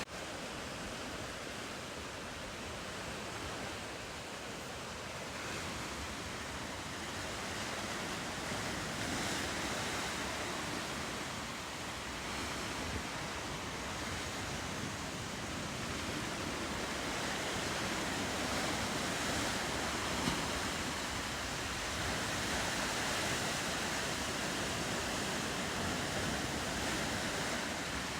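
Ocean surf along a rocky coast: a steady rushing wash of waves that swells and eases slowly.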